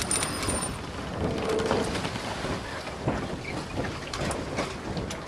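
Sound effect of a logo intro: a steady rain-like hiss with scattered faint crackles, trailing after a whoosh and boom.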